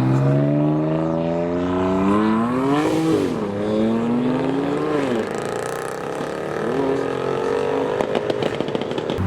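A BMW M4's turbocharged straight-six accelerating hard. The revs climb, dip about three seconds in, climb again, fall away about five seconds in, then rise once more. A few sharp crackles come near the end.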